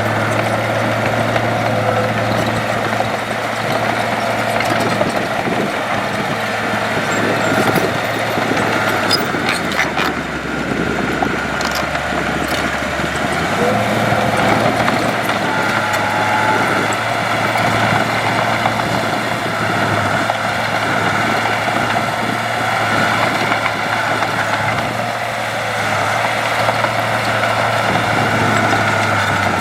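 Heavy diesel earthmoving machinery running steadily, a low engine drone with a broad mechanical noise on top. The engine note drops lower for a few seconds about a third of the way in, then comes back up.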